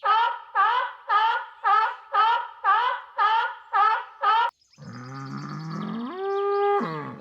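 Animal calls: one short call repeated nine times, about two a second, then a different, longer, lower call that rises in pitch, holds steady and drops away.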